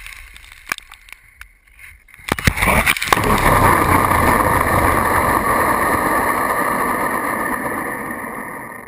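RC truck driving heard close up: a few knocks, then from about two seconds in a loud steady rush of motor, wheels and wind that cuts off suddenly at the end.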